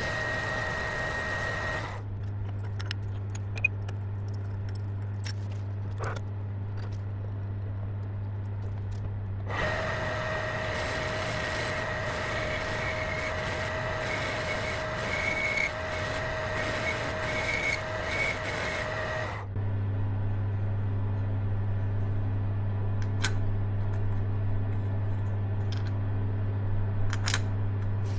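Workshop power tools running in hard-cut sections. A steady low motor hum with scattered metal clicks and scrapes alternates with a louder whining machine with steady tones, which starts about ten seconds in and stops again about ten seconds later.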